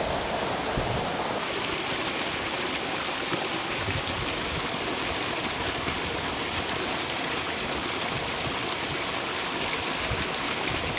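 A stream flowing: steady running water, with no let-up.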